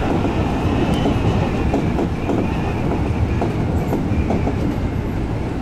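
Seibu 2000 series electric train running along the line: steady wheel-and-rail running noise with scattered knocks and a wavering high whine over it.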